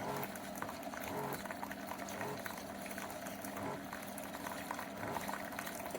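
SiFENE single-serve pod coffee maker mid-brew: a steady hum and hiss of hot water being pushed through the pod as coffee streams into a glass mug.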